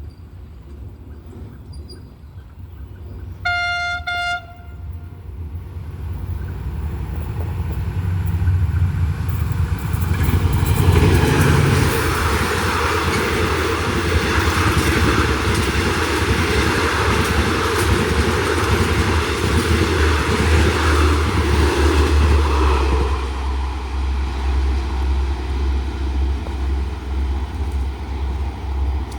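A diesel locomotive's horn sounds one short blast as a passenger train approaches, then the train passes with a rising rumble and rapid wheel clicks over the rail joints for about twelve seconds, dropping to a steady low rumble near the end.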